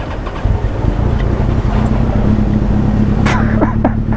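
Motorcycle engine idling with a steady low rumble, its note firming up about a second and a half in. A few short high chirps come near the end.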